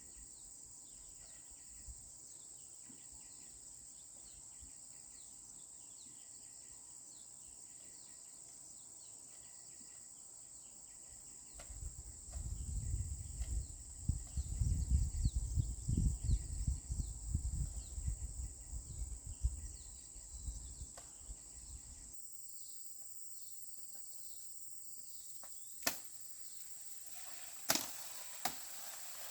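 Insects droning steadily with a high-pitched buzz. From about twelve seconds a loud, low rumble covers it for around ten seconds, and a few sharp clicks come near the end.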